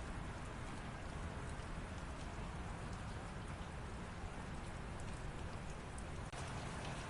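Light rain falling steadily: an even hiss with scattered small drop ticks.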